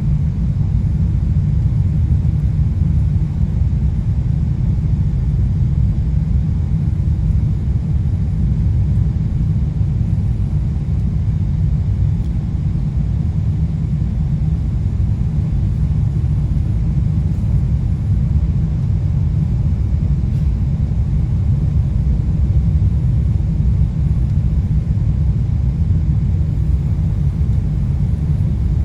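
Steady low rumble of airliner cabin noise, the engines and airflow heard from inside the cabin of a Boeing 777-200 in flight.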